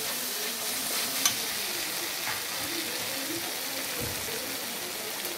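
Tomato-onion masala sizzling in a hot oiled metal kadai as it is stirred and scraped with a flat metal spatula. There is one sharp click of the spatula against the pan about a second in.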